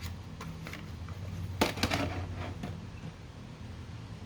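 A few light clicks of small plastic Lego parts being handled and set down, the sharpest about one and a half seconds in, over a steady low background hum.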